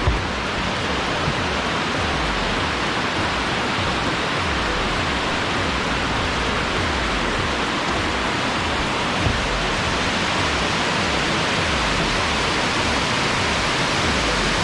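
Waterfall rushing steadily: an even, unbroken hiss of falling water, with a couple of faint brief knocks.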